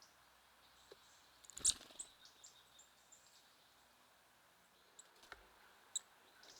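Small songbirds at a feeder: scattered short, high chirps and light clicks, with a louder sharp burst and knock about one and a half seconds in and another sharp chirp near the end.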